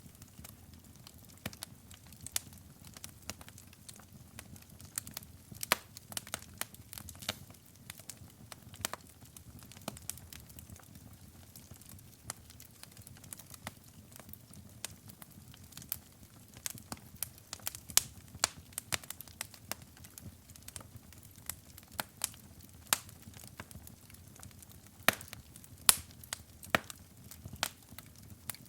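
Wood fire in a fireplace burning and crackling: irregular sharp pops and snaps, some much louder than others, over a low steady rumble of the flames.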